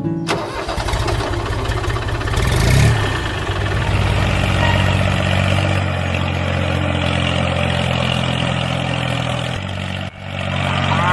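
Engine starting, with a brief rise in speed about three seconds in, then running steadily at an even low pitch; the sound dips out abruptly for a moment near the end.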